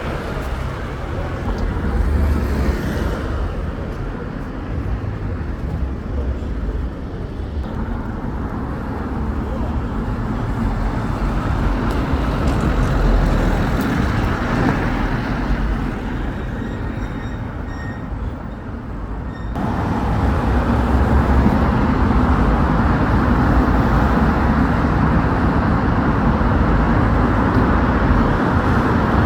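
Road traffic going by: a continuous rumble of motor vehicles with tyre and engine noise. About twenty seconds in the sound changes abruptly and becomes louder.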